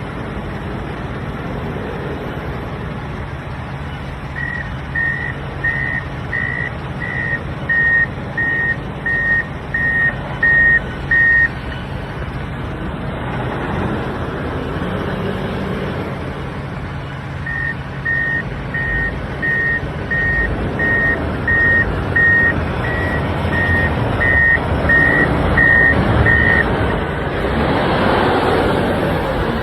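Komatsu WA470 wheel loader's diesel engine running under load while its reverse alarm beeps twice, about three beeps every two seconds, as the machine backs away. The engine note grows louder near the end.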